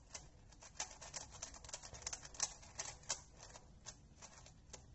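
Plastic Megaminx puzzle being handled and turned: many quick, irregular clicks of its pieces and faces moving.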